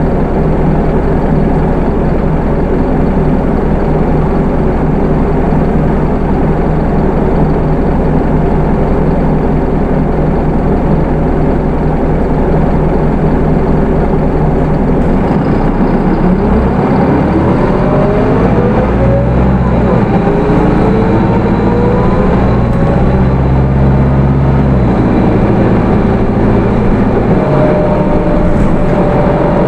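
Hino Rainbow II bus's Isuzu 4HK1 four-cylinder turbo diesel running steadily, then revving up from about halfway through, rising in pitch in steps as the automatic transmission shifts up while the bus accelerates.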